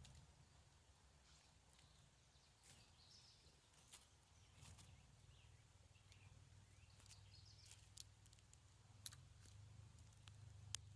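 Near silence: a faint low hum with a few scattered faint, sharp clicks.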